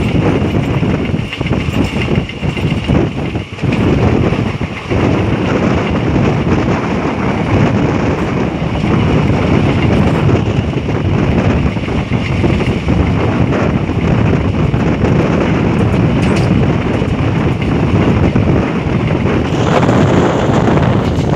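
Passenger train running at speed, heard at an open window as a steady loud rumble with wind buffeting the phone's microphone.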